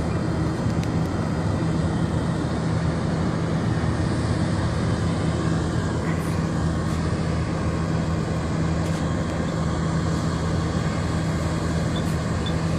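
Steady drone of a vehicle engine running at an even speed, with no change in pitch or level.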